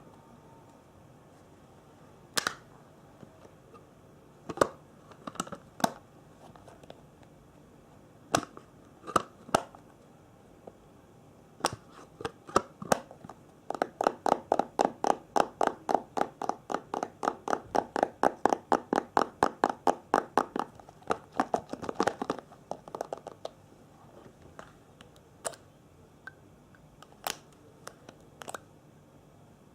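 Close-miked ASMR trigger sounds: scattered sharp clicks and taps, then a fast, even run of tapping at about five taps a second lasting some seven seconds in the middle, then a few more scattered clicks.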